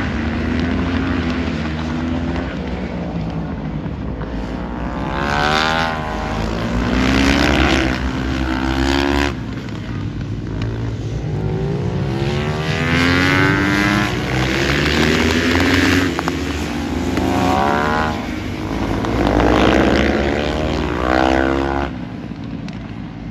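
Motorcycle engines revving hard, their pitch climbing in repeated sweeps and dropping back as they accelerate and shift, three times over a steady low engine drone.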